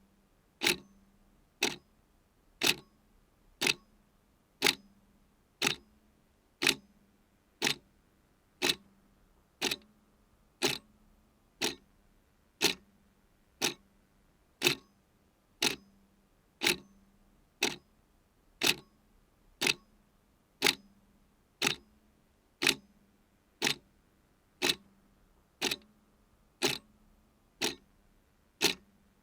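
A clock ticking steadily at about one sharp tick a second.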